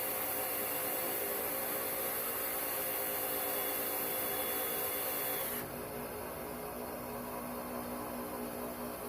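Electric drill running with a cleaning attachment, scrubbing off carbon buildup. The hissing stops about five and a half seconds in, leaving a steady hum.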